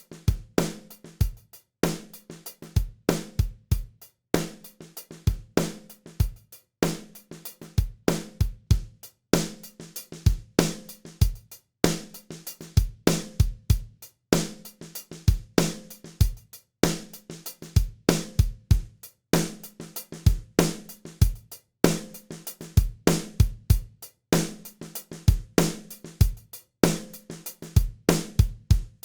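Drum kit loop: kick, snare and hi-hat playing a short pattern that repeats about every two and a half seconds, with a brief drop to silence at each repeat.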